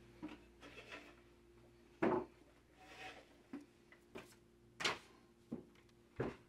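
Scattered short knocks and rustling as a person handles things at a wooden table, shifting papers and moving a glass of water; the loudest knock comes about two seconds in. A faint steady hum runs underneath.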